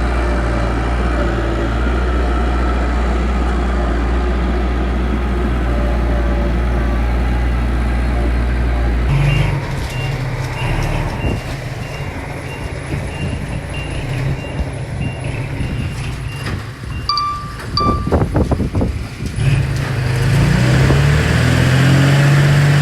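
Diesel engine of heavy earthmoving machinery running steadily, with a back-up alarm beeping for several seconds midway. A few clanks follow, then the engine revs up and holds at a higher speed near the end.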